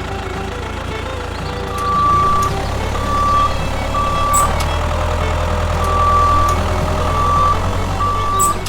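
A vehicle engine runs steadily with a reversing-alarm beeper sounding six short, high beeps of uneven length, starting about two seconds in.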